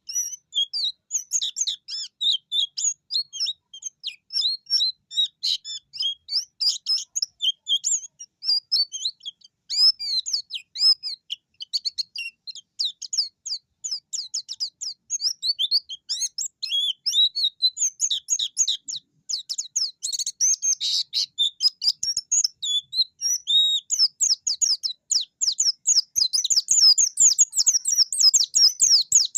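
White-eye (pleci) singing a long, unbroken rolling run of rapid high chirps and twitters, getting louder and denser near the end. This is a bird in full song, taken as a challenge to a rival.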